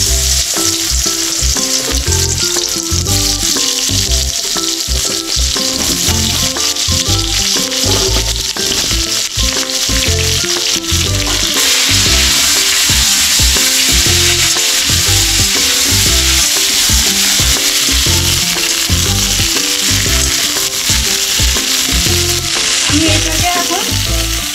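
Cut potatoes and pointed gourd frying in hot oil in a metal wok: a steady sizzle, with a spatula stirring the pieces. The sizzle grows louder about halfway through.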